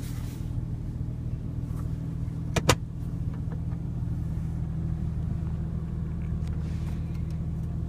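Porsche Cayman GTS flat-six engine idling steadily, a low even hum heard from inside the cabin. Two sharp clicks in quick succession about two and a half seconds in.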